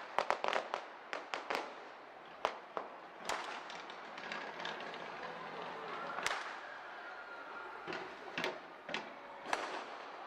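Fireworks exploding: a rapid volley of sharp bangs in the first second and a half, then scattered single loud bangs through the rest.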